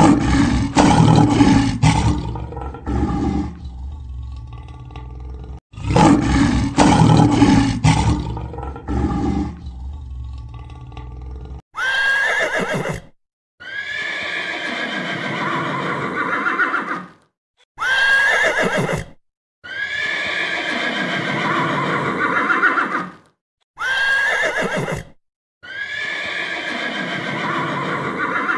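A lion roar followed by grunts, played twice in a row, then horses neighing: a short whinny and a longer whinny, the pair repeated three times with brief silences between.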